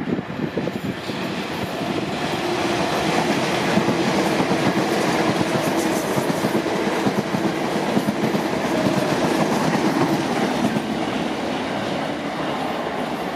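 Electric passenger train running along the tracks with the steady noise of wheels on rails. It builds over the first few seconds, holds loud, and eases slightly near the end.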